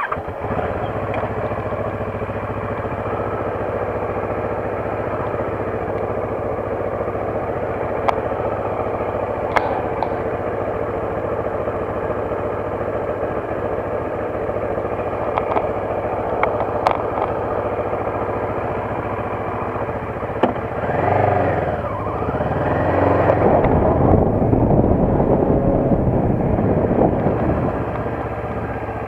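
Motorcycle engine running steadily, then rising and falling in pitch several times about twenty seconds in as it is revved, and running a little louder after that.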